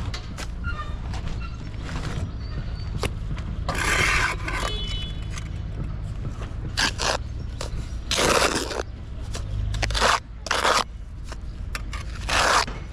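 Several short scraping strokes, each under a second, over a steady low machine hum.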